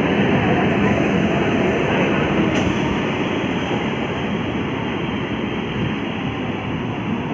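Electric multiple-unit (EMU) local train running past: a steady, loud rumble of wheels on rail that fades slowly.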